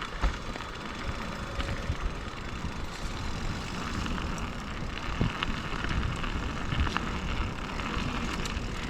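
Mountain bike descending a dirt flow trail through a berm turn: knobby tyres rolling on dirt and wind rushing over the microphone, with scattered clicks and rattles from the bike.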